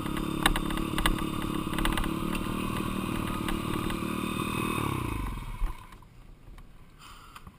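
Dirt bike engine running steadily with some clatter, then winding down in pitch and dying away about five seconds in.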